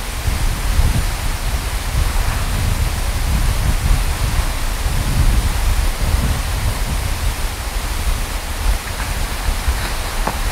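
Wind buffeting the microphone outdoors: a gusty low rumble under a steady broad hiss.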